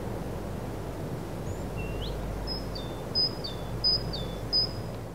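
A bird calling over steady outdoor background noise: one rising note about two seconds in, then four high calls, each dropping in pitch, about two-thirds of a second apart.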